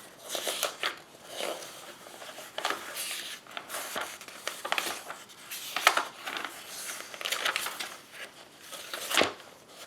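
Pages of a paper catalog being flipped and turned, a string of irregular rustling swishes.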